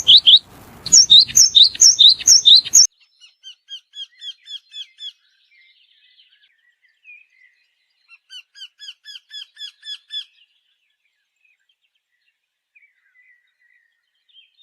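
Songbirds singing: loud, quickly repeated chirps for the first few seconds, then cutting abruptly to a different bird giving two rapid series of short, down-slurred notes, about seven a second, after which it falls nearly silent.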